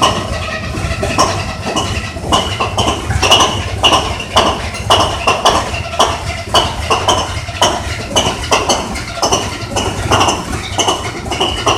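GM DE18000 diesel-electric locomotive's V12 diesel engine running unevenly after a cold start. Irregular, loud metallic knocks, about two to three a second, ride over a steady low rumble.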